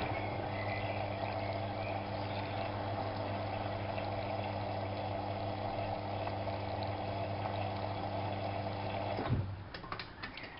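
Alaska WA8200 E washing machine running with a steady low hum and a wash of water noise, which stops about nine seconds in, followed by a few short clicks.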